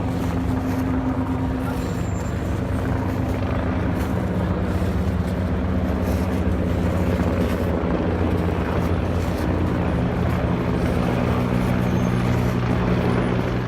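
Helicopter running steadily near a heliport, a loud low hum made of several steady pitched tones.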